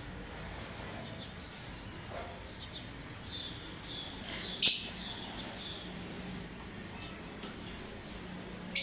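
Lovebirds chirping: faint scattered high chirps, with two loud sharp calls, one about halfway through and one at the very end.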